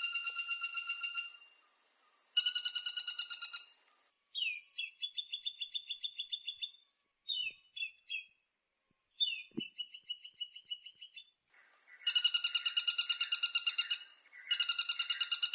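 Woodpecker calls: a string of fast rattling calls, each a rapid run of repeated notes lasting one to two and a half seconds, with short gaps between. Lower-pitched rattles open and close the run, and higher-pitched ones, some in short broken bursts, come in the middle.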